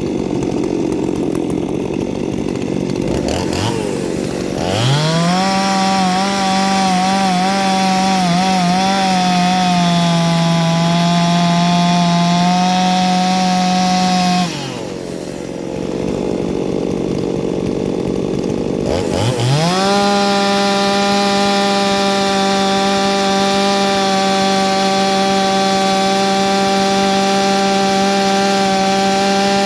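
Ported two-stroke chainsaw idling, then revved to full throttle and held in a cut, its pitch wavering and sagging slightly under load. It drops back to idle for a few seconds, then revs up again about two-thirds of the way through and holds steady at full speed.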